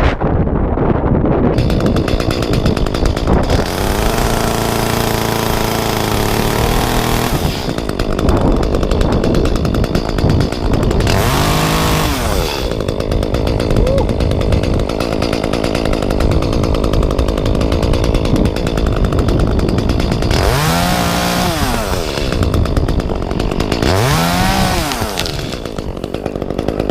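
Echo chainsaw running, its engine revving up and dropping back several times: once around the middle and twice near the end.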